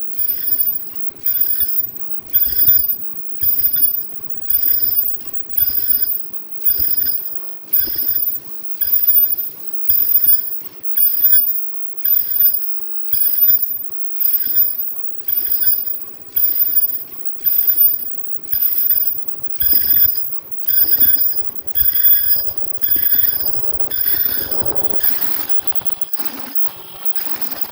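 A ringing metallic chime sounding in an even rhythm, about one stroke a second, each stroke fading before the next. The strokes grow weaker and blur together near the end.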